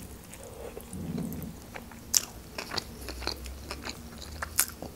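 Close-miked chewing of a bite of sushi roll: a scatter of short, wet mouth clicks and smacks, two of them sharper, about two seconds in and near the end.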